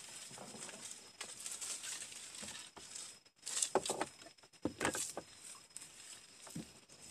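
Leaves and undergrowth rustling and crackling as a person works among the plants and steps through the brush, loudest in a few bursts near the middle. A faint steady high-pitched tone runs underneath.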